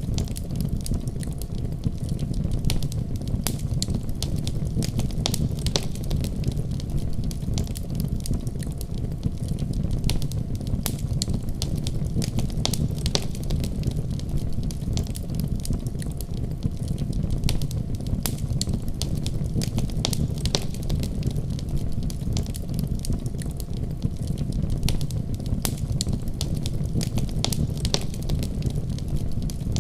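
Wood fire in a fireplace crackling: frequent sharp, irregular pops and snaps over a steady low rumble of the burning fire.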